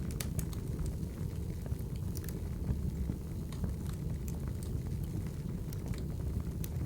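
Wood fire crackling: a steady low rumble with irregular sharp pops and snaps scattered through it.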